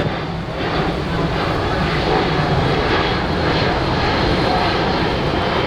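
C-17 Globemaster III's four turbofan jet engines: a loud, steady jet engine noise with a deep rumble as the transport flies its demonstration.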